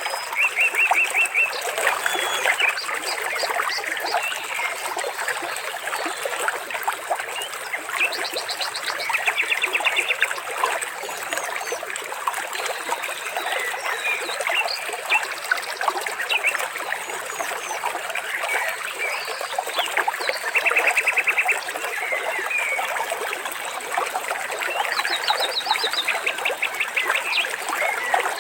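Water trickling steadily, with scattered bird chirps and short rapid trills recurring every few seconds.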